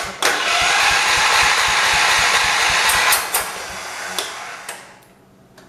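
John Deere 208 garden tractor's single-cylinder engine being cranked by the starter for about three seconds, with an even chugging pulse, then fading away as the cranking stops.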